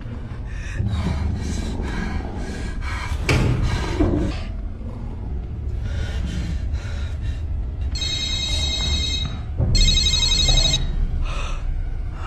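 A telephone bell ringing in two rings, the first about eight seconds in and the second about ten seconds in, over a steady low rumble.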